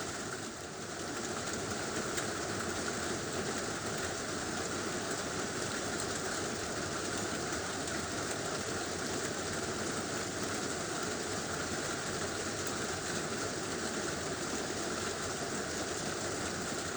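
Heavy rain falling steadily on a tin roof, a dense, even hiss.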